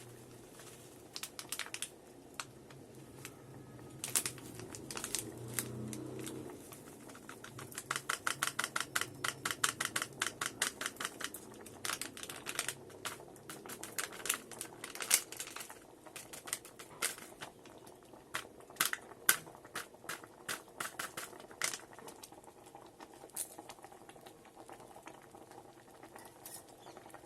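Metal spoon clicking and tapping against the electric kettle and the oats container as oats are spooned into boiling water. About eight seconds in there is a quick run of taps, about four a second, for a few seconds.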